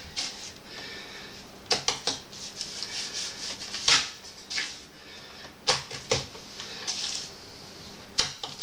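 Masonry work: scraping and rubbing with about seven sharp knocks and clacks at uneven intervals.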